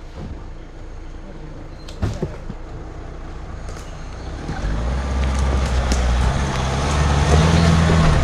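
Off-road vehicle's engine running, then building revs and getting louder from about halfway through as it pulls. A single knock about two seconds in.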